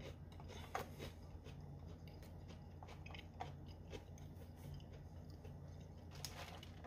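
Faint chewing and crunching of a dry MRE cracker topped with cheese spread, with a few soft clicks scattered through.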